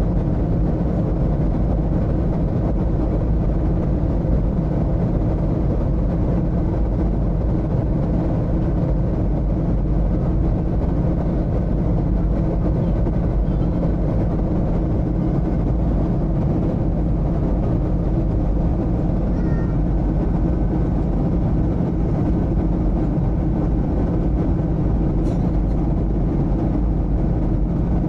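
Steady cabin noise inside a Boeing 737-800 in flight on approach: an even, low rumble of airflow and engines, with a faint steady hum through it.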